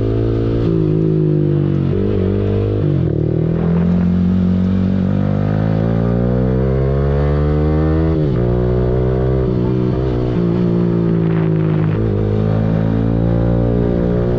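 2022 Yamaha R15M's 155 cc single-cylinder engine, fitted with a Yahom exhaust, running under way. Its pitch climbs as it pulls, then drops sharply about three and eight seconds in as it shifts gear, and eases down and back up with the throttle.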